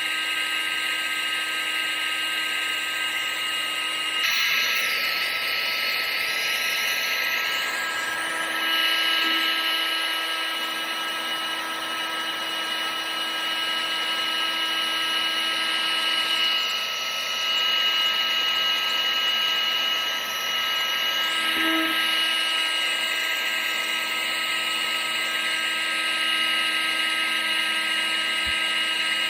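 Vacuum cleaner running steadily: a high motor whine over rushing air, its tone shifting slightly every few seconds.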